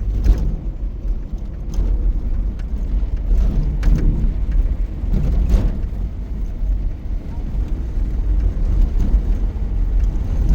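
A steady low rumble with a few scattered knocks and rattles.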